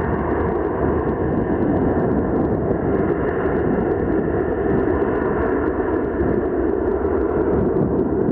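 Boeing 737 jet engines at takeoff thrust during the departure: a loud, steady noise that holds evenly throughout.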